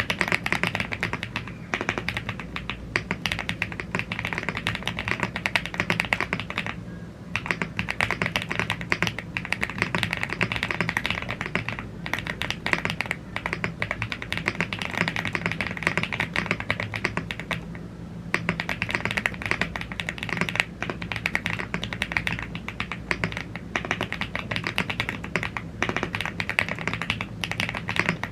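Fast, continuous typing on a YUNZII AL75 gasket-mounted aluminium mechanical keyboard with Blue Grey tactile switches and double-shot PBT Cherry-profile keycaps. Keystrokes clatter densely, with brief pauses three times.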